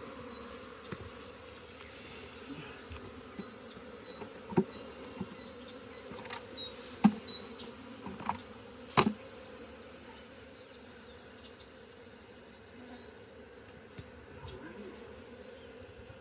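Honeybees from an opened hive buzzing, a steady hum, with several sharp knocks in the middle as hive frames and boxes are handled.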